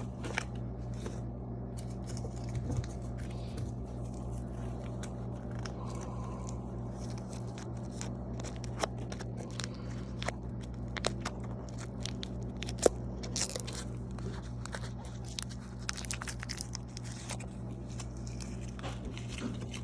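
Scattered light clicks, taps and crunchy scrapes of a measuring spoon and spice containers being handled while dry seasoning is measured out, with one sharper click about thirteen seconds in. A steady low hum runs underneath.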